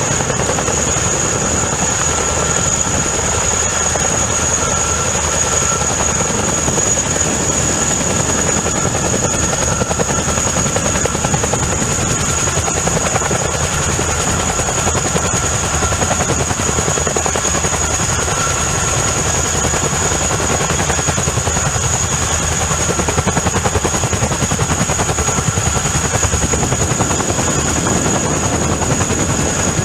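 CH-47 Chinook tandem-rotor helicopter running loud and steady: a dense rotor beat under a continuous high whine from its twin turboshaft engines.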